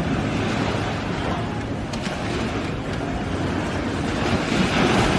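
Sea surf washing onto the beach, with wind buffeting the microphone; the wash swells louder about four and a half seconds in.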